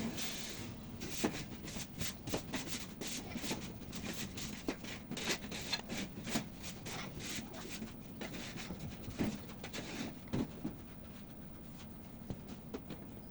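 Irregular small clicks and taps with light rubbing as the stereo's display circuit board and small tools are handled during repair of cracked solder joints; the clicks thin out near the end.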